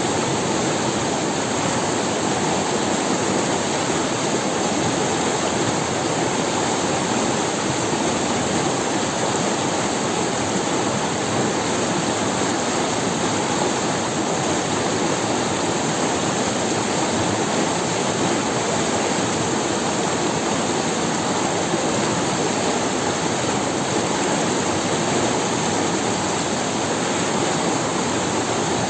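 A forest river running over stones, with a steady, even rush of water.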